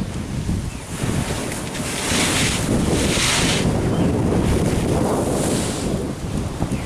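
Wind buffeting the microphone over the wash of ocean waves, with two louder surges of hissing surf, about two seconds in and again about five seconds in.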